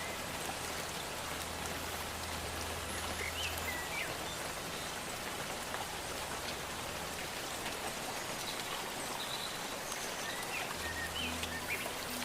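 Steady rain falling, an even hiss, with a few short high chirps of forest creatures and a soft low drone that fades in and out.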